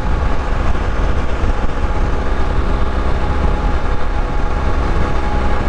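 Motorcycle cruising at steady highway speed: a constant engine drone mixed with rushing wind and road noise, with a strong deep rumble underneath and no change in pace.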